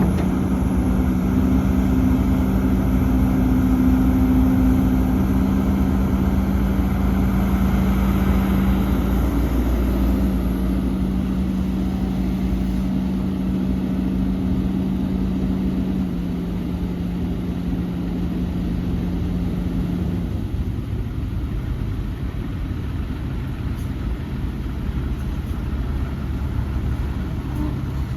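Heavy diesel machinery running: a steady engine hum that drops a step about halfway through and dies away about two-thirds of the way in, with engine rumble continuing underneath.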